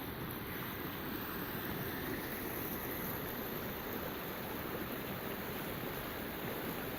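Flash-flood water running steadily down a normally dry desert wash, a continuous rushing noise.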